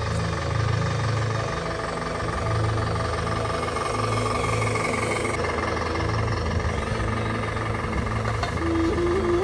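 Steady engine-like running sound of an RC rock crawler on the trail, with a low, even rumble and a shift in tone about five seconds in.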